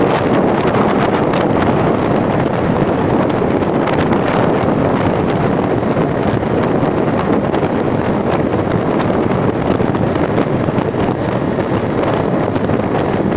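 Steady, loud wind rushing over the microphone while riding.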